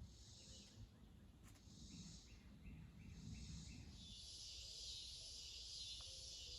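Faint insects in the woods: high, hissy pulses about once a second, then a steady high buzz from about four seconds in. A short run of about six quick chirps comes in the middle.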